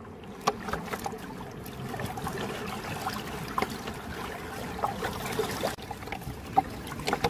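River water flowing and trickling, with scattered small splashes and clicks through it, as from wading and handling stones in the shallows.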